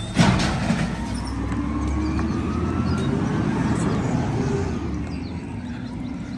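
Garbage truck working: a sharp clank just after the start, then the engine revving up and easing off under a heavy rumble, with a thin whine rising in pitch.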